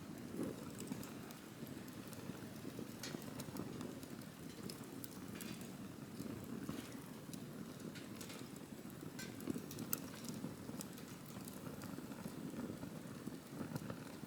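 Wood campfire burning: a steady low rush of flames with scattered sharp crackles and pops from the burning wood.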